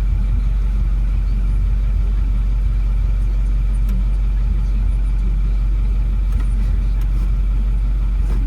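2009 Ford F250's 6.4-litre Power Stroke V8 diesel idling steadily, with a few faint clicks.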